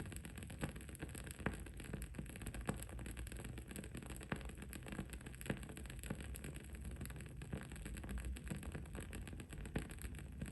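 Wooden candle wick crackling as it burns: irregular small pops and ticks, several a second, over a steady low background hum and hiss.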